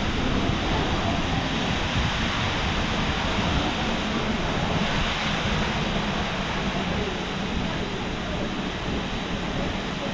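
Waterfall (South Falls, a tall plunging fall) giving a loud, steady rush of falling water, even and unbroken throughout.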